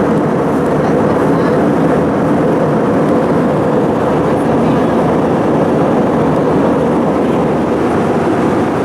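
Steady roar of an Airbus A320's engines and airflow heard inside the passenger cabin: a constant, loud rumble with no change in level.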